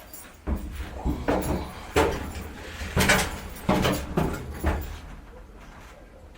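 A series of irregular knocks and clunks, about eight in the first five seconds, over a low rumble, then quieter near the end.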